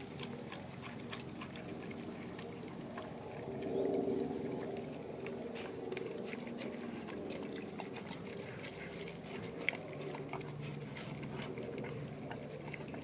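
Doberman eating a wet raw meal from her bowl: irregular wet chewing, licking and slurping with many small clicks, rising briefly about four seconds in.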